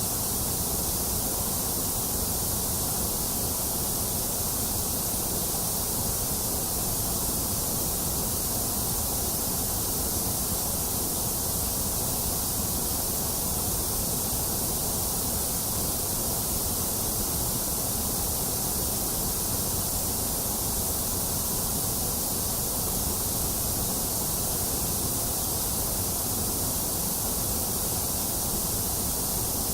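Steady, unchanging white noise for soothing a baby to sleep: an even hiss, strongest in the highs and the lows with a hollow in the middle.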